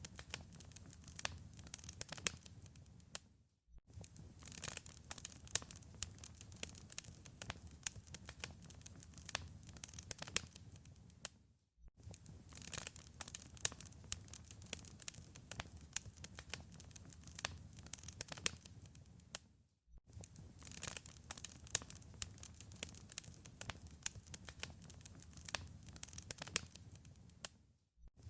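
Wood fire crackling in a fireplace: dense, irregular snaps and pops over a low rumble. The sound drops out for a moment about every eight seconds.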